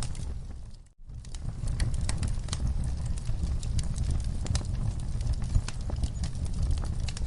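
Outdoor wood fire burning: a steady low rumble with frequent sharp crackles and pops from the logs. The sound fades and drops out for an instant about a second in, then comes straight back.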